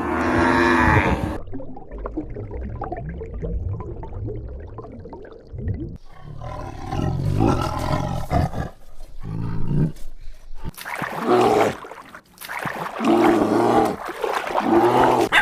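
Farm animals calling: a low pitched call that breaks off about a second in, then a series of separate short calls that grow louder near the end.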